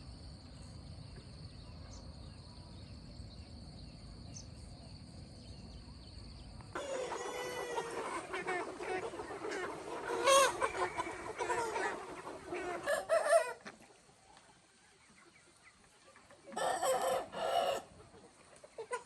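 Chickens clucking and calling, with a short two-part crow near the end. Before them, about seven seconds of a steady high whine over a low rumble, which cuts off abruptly.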